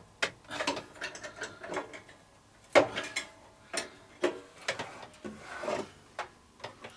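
Irregular metal clicks and short scrapes from tools working on a bandsaw's blade guides as they are loosened and adjusted, with one sharper click about three seconds in.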